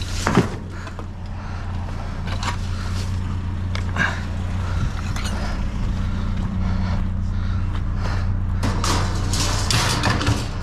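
Truck engine running steadily with a hum, with a few knocks, and a louder rustling clatter near the end.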